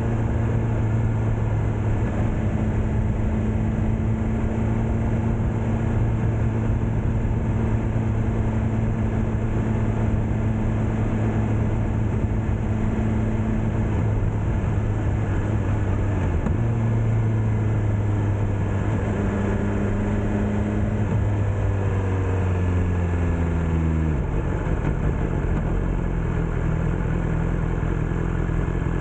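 BMW S1000R inline-four engine running under way with road and wind noise, holding a steady note. With about eight seconds left the engine note falls over a few seconds, then settles at a lower steady note.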